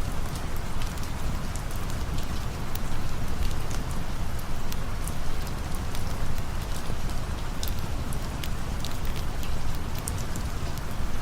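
Steady rain falling as a dense, even hiss, with scattered sharp clicks throughout.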